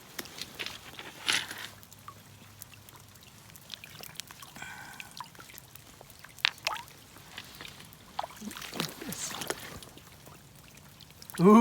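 Creek water trickling and splashing in the rain, with scattered short clicks and splashes.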